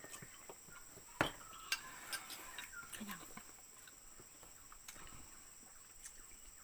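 Quiet eating sounds: a few sharp clicks and light taps of cutlery against a plate, two of them standing out just over a second in.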